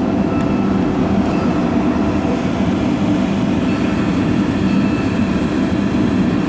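Fire ladder truck's engine and aerial hydraulics running steadily as the platform is raised.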